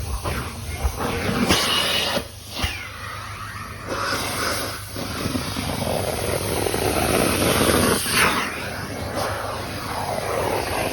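Carpet extraction wand running under strong vacuum, a steady rushing hiss that swells and fades with the strokes across the carpet.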